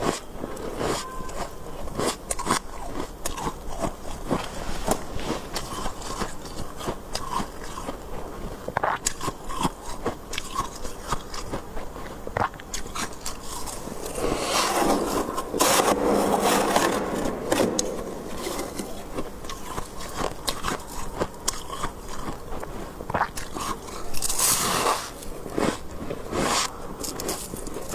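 Close-miked biting and crunching of soft, powdery freezer frost, a dense run of small crackles, with scraping sounds. It grows louder and fuller about halfway through and again briefly near the end.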